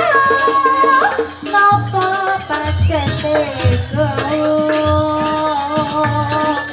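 Javanese gamelan music accompanying a wayang performance: a singer's long, wavering held notes over deep hand-drum strokes.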